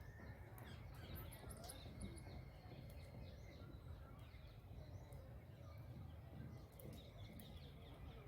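Faint chirps of small birds over a low, steady background rumble.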